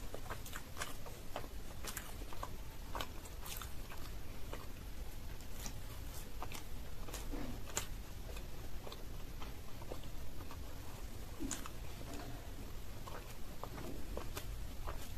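Close-miked chewing of soft food, green peas kochuri with dum aloo: irregular wet mouth clicks and smacks, over a low steady hum.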